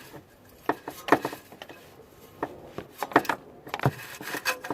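Irregular scrapes and knocks of hand-cleaning the metal around an exhaust leak on an engine, in short clusters of strokes.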